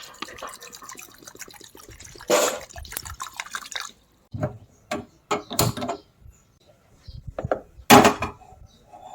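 Water splashing and dripping with sharp clicks, in several short bursts broken by brief silences; the loudest burst comes near the end.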